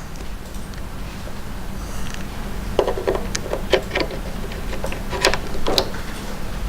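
Speaker cables being connected to a power amplifier: a run of short clicks and knocks from plugs and connectors being handled, over a steady low hum.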